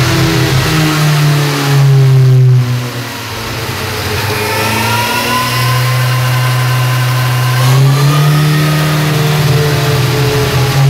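Honda sport motorcycle engine being warmed up, running at high revs: it is loudest about two seconds in, eases off around three seconds in, then climbs again from about eight seconds.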